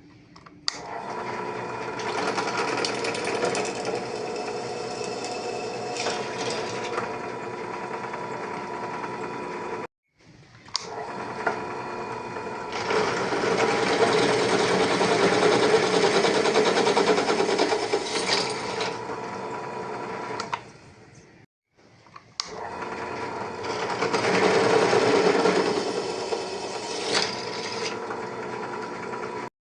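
A small motor-driven machine running in three stretches of roughly ten seconds each, stopping briefly twice and growing louder in the middle of each run.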